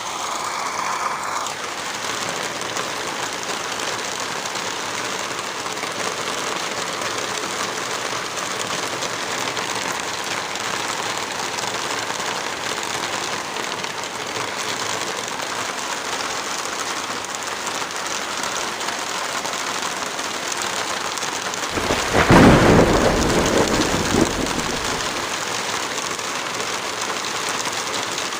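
Steady rain falling, with one roll of thunder about three-quarters of the way through that rumbles for a few seconds and fades.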